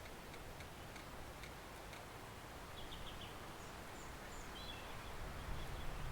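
Small woodland stream flowing with a steady, soft hiss. Faint bird calls sit over it: short repeated clicking notes in the first couple of seconds, then a few quick high chirps about halfway through.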